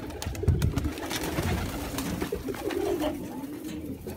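Pigeons cooing in a loft, low wavering coos overlapping throughout, with scattered sharp clicks and knocks among them.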